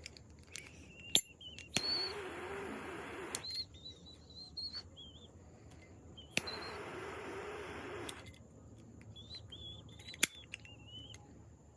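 A small bird chirping in short, wavering high notes, again and again. Two rasping noises, each a second or two long, and a few sharp clicks are heard as well.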